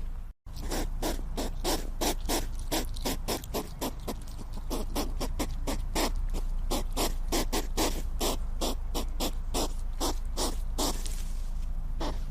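Hedgehog making short breathy puffs in a quick, even run, about three or four a second, over a steady low hum. The sound cuts to silence for a moment just under half a second in.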